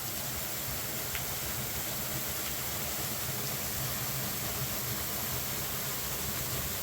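Steady, even rushing of water falling from a partly frozen waterfall, with one faint tick about a second in.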